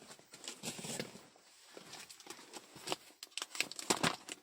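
Parcel packaging being handled: rustling and crinkling with scattered small clicks and knocks, louder near the start and end.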